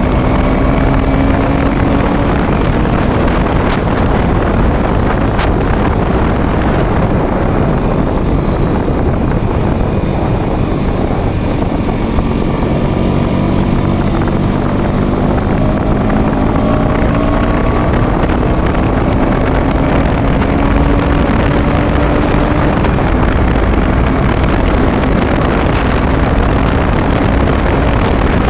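Motorcycle engine running while under way, its pitch slowly rising and falling, under heavy wind rush on the microphone.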